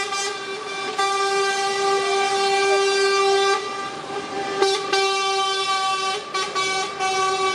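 Lorry air horn held in long, steady blasts, one loud note with a few short breaks partway through.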